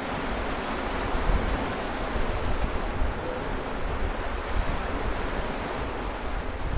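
Sea surf washing against a rocky shore, a steady rush of noise, with wind gusting on the microphone.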